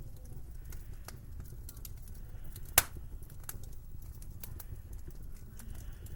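Wood fire crackling in a fireplace: scattered sharp crackles, with one louder pop about three seconds in, over a low steady rumble.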